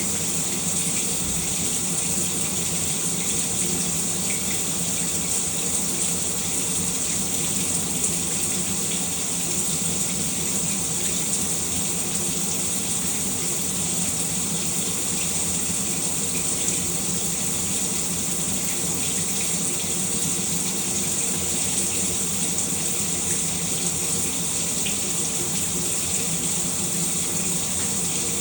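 Shower running steadily, its spray a bright, even hiss with a low steady hum underneath.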